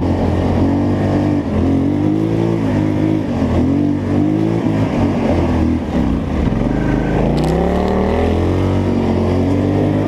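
Polaris Scrambler 850 ATV's twin-cylinder engine under way, its pitch rising and falling several times as the throttle is opened and eased.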